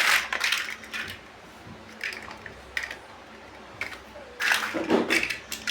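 Plastic building bricks being handled and pressed together: clusters of short clicks and rattles in the first second and again about four and a half seconds in, with a few single clicks between.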